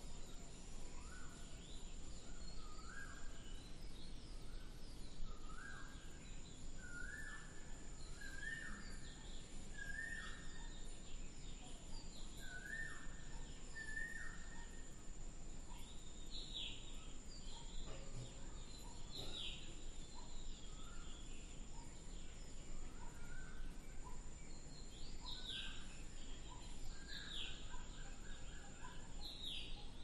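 Birds calling: a series of short repeated calls that climb in pitch over the first half, then sharp falling high calls, over a steady thin high-pitched whine and outdoor background noise.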